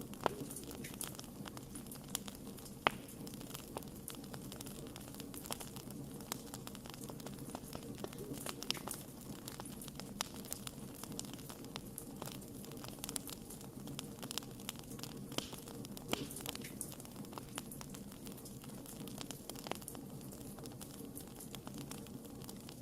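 Campfire crackling: a steady low rush of flames with frequent sharp pops and snaps, a few of them louder than the rest.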